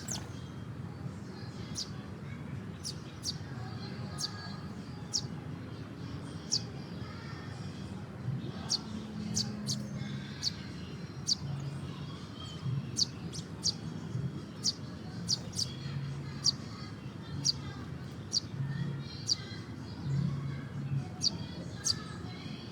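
Small birds chirping: many short, sharp, high chirps in irregular succession, a few every second, over a low background hum.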